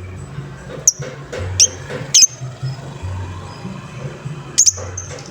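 Lovebird giving short, sharp, high squeaks: five of them, with the last two close together near the end. Background music with a low pulsing beat plays throughout.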